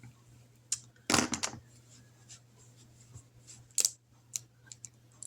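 Paper handling and a marker on a paper savings chart: scattered light rustles and taps, with a longer rustle about a second in. A faint steady low hum runs underneath.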